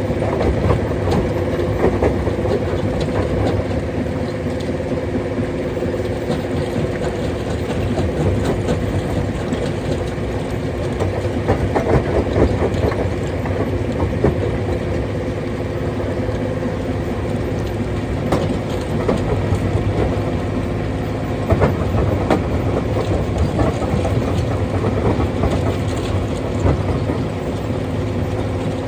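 Rock crusher running under load: a steady engine or motor hum with constant, irregular knocking and rattling of stone being crushed.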